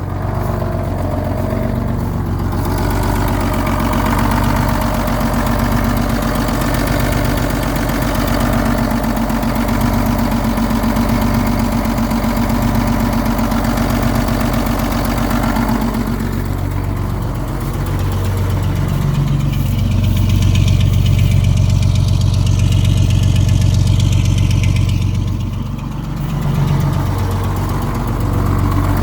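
1985 Ford CL9000 cabover semi's diesel engine running just after a cold start. Around the middle the note drops lower and gets louder for several seconds, then eases back near the end.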